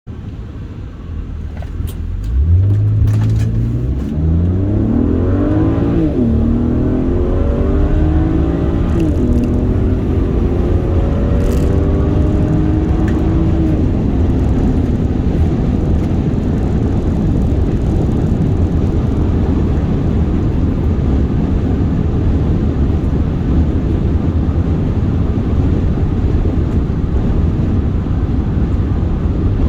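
Stock 2009 BMW 135i's N54 twin-turbo straight-six accelerating hard through the automatic's gears, heard from inside the convertible. The engine note rises, drops at upshifts about six and nine seconds in, and climbs more slowly until, after about fourteen seconds, a steady rushing of the car at speed covers it.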